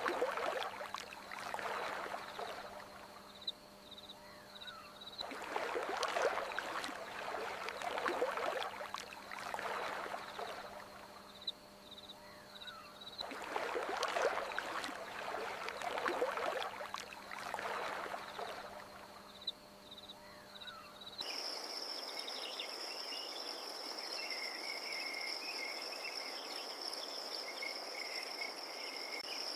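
Water rushing in swells that rise and fall every few seconds, with a few faint chirps. About two-thirds of the way through it cuts abruptly to a steady high trill of night crickets.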